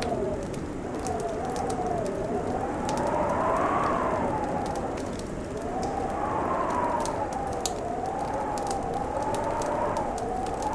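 Wood fire crackling with scattered sharp pops, under a howling wind whose whistle slowly rises and falls in pitch over a steady rushing bed.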